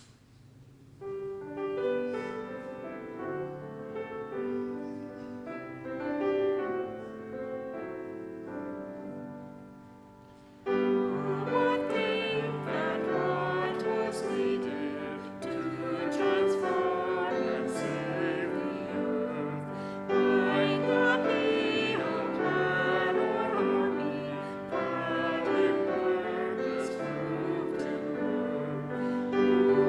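A hymn: a keyboard instrument plays the introduction, and about ten seconds in the congregation joins in singing the hymn with the accompaniment.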